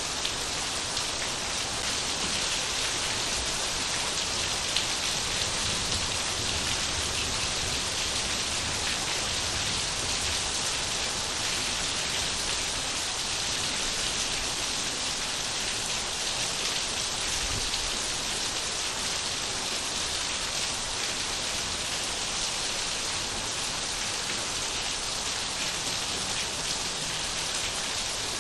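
Steady rain falling, an even hiss with fine drop patter throughout.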